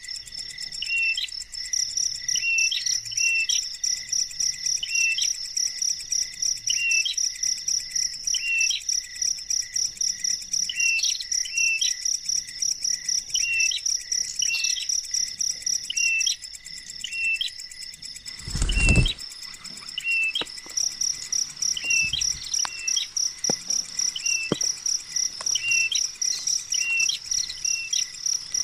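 A steady, rapidly pulsing high insect trill, with a bird giving short, repeated down-slurred calls about once a second. The trill drops out for a few seconds partway, and a single loud thump comes about two-thirds of the way in.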